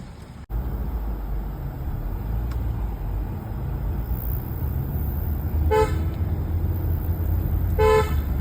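Steady low vehicle rumble, with two short horn toots about two seconds apart in the second half.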